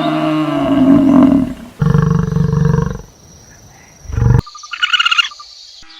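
Several different animal calls cut one after another: a low rasping call, then a buzzy pitched call, then after a short gap a brief high chattering call.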